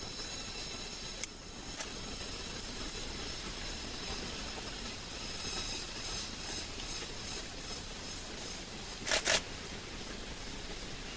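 Forest ambience: a steady high-pitched drone of insects over a faint hiss. There is a short click about a second in, and two sharp, loud sounds in quick succession near the end.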